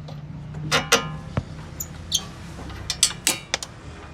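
Metal clanks and knocks of hand tools on car parts, about eight sharp strikes at uneven intervals, the loudest about a second and three seconds in, over a steady low hum.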